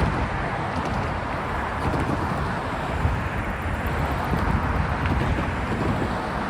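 Freight cars rolling past on the rails, a steady low rumble, with wind buffeting the microphone.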